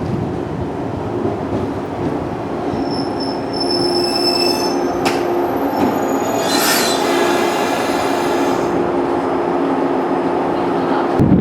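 A 115-series electric train moving slowly, running with a steady rumble and a held low tone. Its wheels and brakes give thin, high-pitched squeals from a few seconds in, with a sharp click midway and the loudest squeal about two-thirds through.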